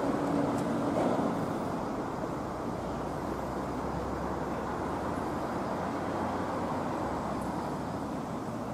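Seibu 30000-series electric train pulling slowly into the station platform. It makes a steady running noise of wheels and undercarriage, a little louder in the first second.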